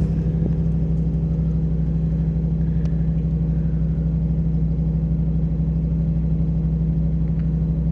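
A vehicle engine running steadily at an even speed, a low unchanging drone.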